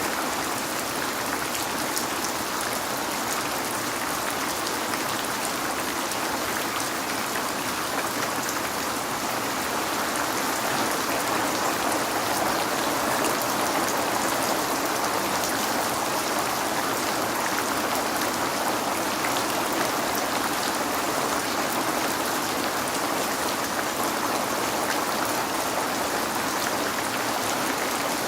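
Steady rain falling on a window: a dense, even hiss of drops with fine scattered patter and no thunder.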